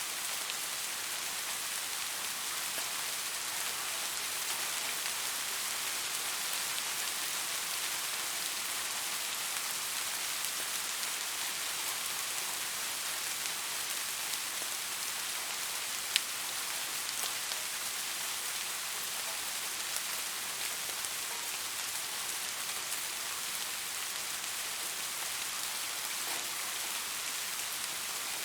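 Steady rain, an even hiss of many drops, with one sharp tick about sixteen seconds in.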